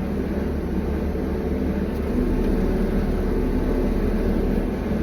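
Steady low engine-like rumble with a few faint held tones, unchanging throughout.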